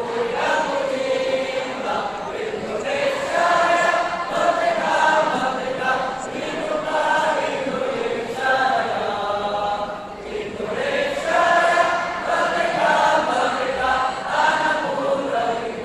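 A large group of voices singing or chanting together in unison, in long held melodic phrases with a short break about ten seconds in.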